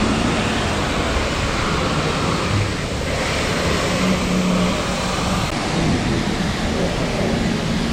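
Water spraying hard from a hose as a dump truck is rinsed down: a steady hiss of spray, with a faint engine hum underneath.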